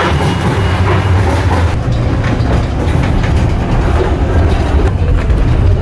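Passenger train carriage running along the track, heard from inside: a loud, steady low rumble of the wheels with occasional short clicks.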